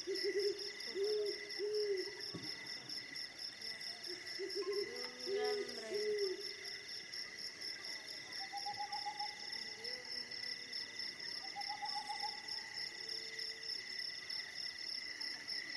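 Crickets chirping steadily, with groups of low hooting calls near the start and again about five seconds in, and short higher trilling calls in the second half.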